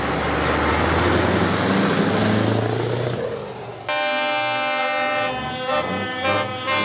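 A truck driving past with engine and road noise, then about four seconds in a truck air horn sounds: one long blast followed by a string of short toots.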